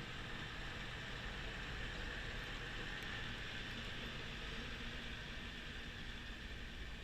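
Kubota B2650 compact tractor with a B2782 front-mounted snowblower running steadily: a constant mechanical hiss and drone with no change.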